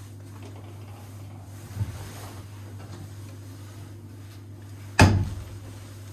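Two hard knocks, a light one near two seconds in and a loud, sharp one about five seconds in that rings briefly, over a steady low hum.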